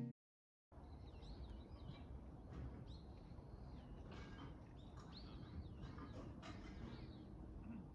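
Faint birdsong, short arching chirps repeated many times over a steady faint background noise. It comes in after a brief moment of dead silence right at the start.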